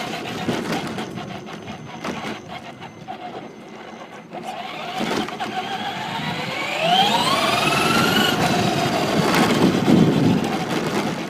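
Electric motor of a Traxxas Slash 2WD RC truck whining up steeply in pitch as it accelerates, past the middle, then holding a high pitch. Scattered clicks come before it, and a loud rush of noise about ten seconds in.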